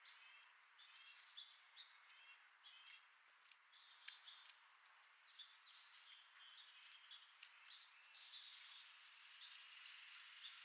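Faint chirps and twitters of small birds, many short high notes scattered throughout, over a steady outdoor hiss.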